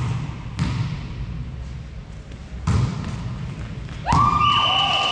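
Volleyball struck three times, sharp hits that echo briefly in a sports hall. A sustained raised voice starts about four seconds in.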